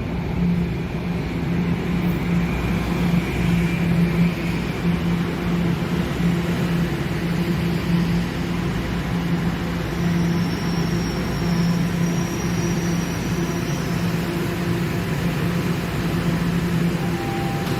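TTC subway train giving a steady, pulsing low electrical hum. A faint high whine comes in for a few seconds midway, and a tone falls away near the end.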